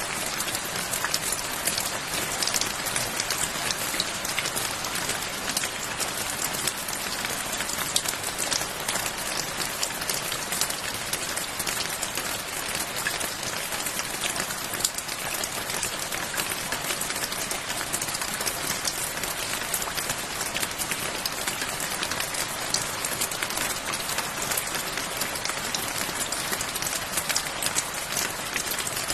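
Steady rain falling, a dense even hiss speckled with countless small drop ticks.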